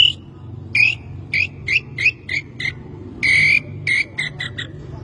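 A man whistling an imitation of a nambu (tinamou) call: a series of short, clear whistled notes, one held longer about three seconds in, then a quick run of short notes near the end.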